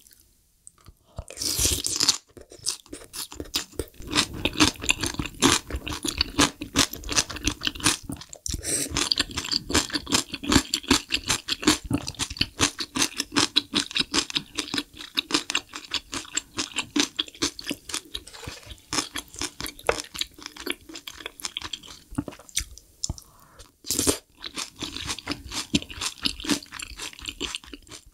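Close-miked chewing of mapo tofu and chewy noodles: rapid wet clicks and crunches, pausing briefly twice, with short louder bursts about two seconds in and again near the end.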